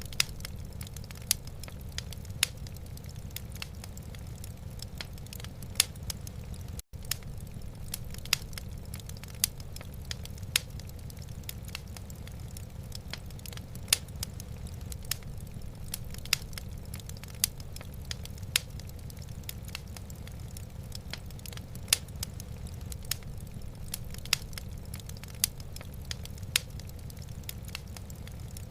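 Wood fire crackling in a fireplace: irregular sharp pops and snaps over a steady low rumble, with a brief dropout about seven seconds in.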